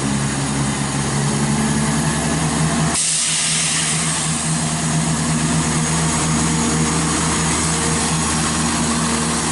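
Class 170 Turbostar diesel multiple unit's underfloor diesel engines running as the train pulls out of the station, a steady low drone of several tones. About three seconds in a loud hiss comes in.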